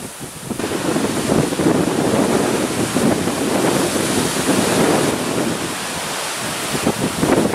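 Strong, gusty storm wind blowing hard against the microphone, with gusts of about 85 to 90 km/h. A gust builds about half a second in, eases a little around six seconds, and picks up again near the end.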